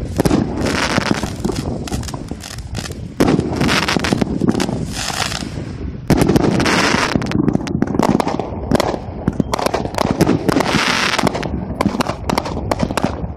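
Multi-shot aerial firework cake firing: a dense run of rapid pops and crackling with hissing swells, getting suddenly louder about three seconds in and again about six seconds in.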